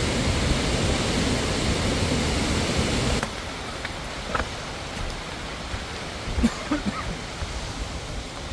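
Small waterfall rushing steadily. A little over three seconds in, the sound drops suddenly to a quieter rush of water, with a few faint short clicks and blips after.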